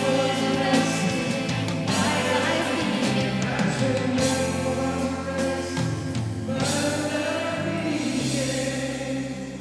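Church worship band playing a song with a group of singers, bass and drums; the music winds down near the end, leaving a guitar ringing.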